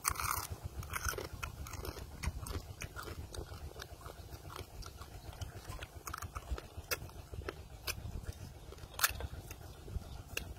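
A man eating roasted crabs, shells and all: wet chewing with crisp crunches and cracks as the shells break in his teeth and fingers. The loudest crunches come right at the start and as one sharp crack about nine seconds in, over a low steady rumble.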